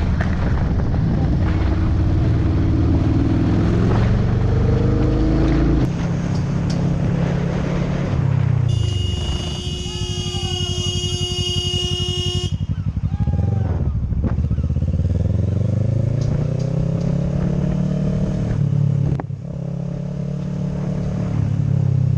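A motorcycle engine revving up and dropping back repeatedly as the bike accelerates and changes gear. About nine seconds in, a vehicle horn sounds in one steady blast lasting nearly four seconds, then cuts off.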